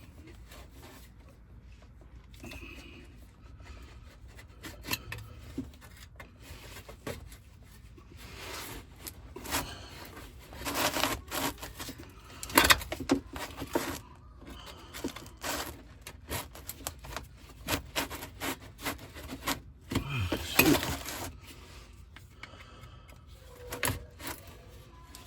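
Tools scraping and clicking against the rear differential cover of a truck as it is worked loose from its sealant, in irregular bursts, the loudest about twelve and twenty seconds in.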